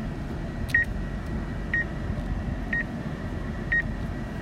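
A short, high electronic beep repeating about once a second, five times, over a steady low rumble inside the truck.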